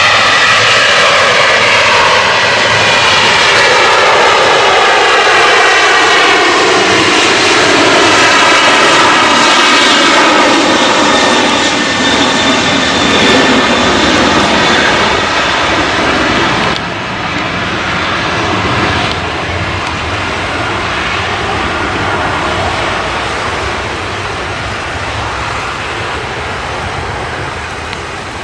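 Boeing 737-800's twin CFM56-7B turbofan engines at takeoff power, loud, with bands of tone sliding downward as the jet passes. The sound drops suddenly about seventeen seconds in, then fades gradually as the aircraft climbs away.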